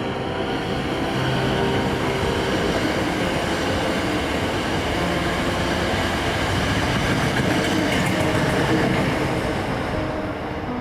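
A Hankyu electric train passing over a level crossing, its wheels clattering on the rails. It grows louder and is loudest near the end.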